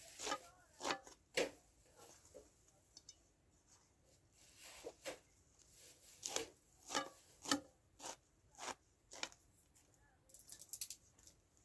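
Food being cut by hand: about a dozen short, crisp strokes at an irregular pace, with a quick flurry near the end.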